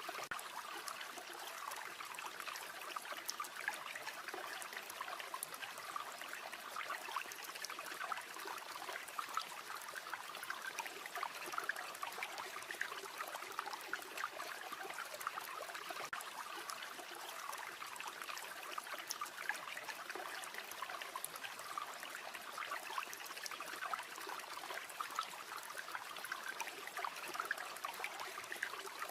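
River water flowing and trickling steadily, with faint scattered crackles of a campfire mixed in.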